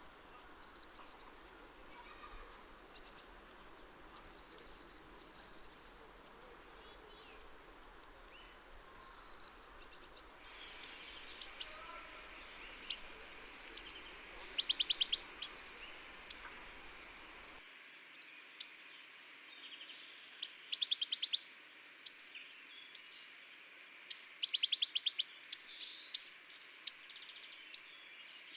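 Small garden songbirds singing and calling. Three separate phrases come about four seconds apart, each a quick high falling note followed by a lower held note. From about ten seconds in there is a busy run of short high chirps with several rapid trills, over a faint steady hiss.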